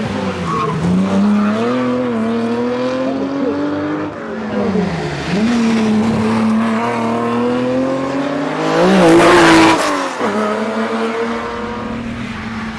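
Datsun 240Z's straight-six engine driven hard through a rally stage: the revs climb and fall repeatedly with gear changes and lifts, peaking in its loudest stretch about nine seconds in before dropping and holding steady.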